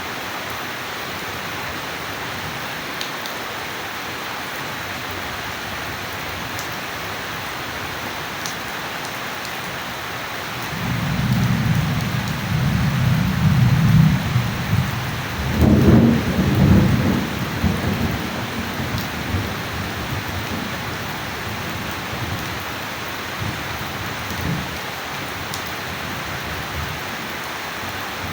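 Steady heavy rain hissing, with a roll of thunder that begins about eleven seconds in, builds to a sharper crack around the middle and rumbles away over several seconds.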